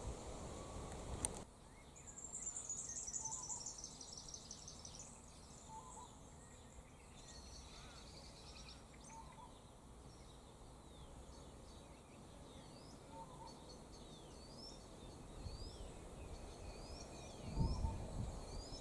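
Wild birds calling over faint steady outdoor background noise. A rapid descending high trill comes about two seconds in, then repeated short down-slurred chirps, with a sharp click just over a second in and some low thumps near the end.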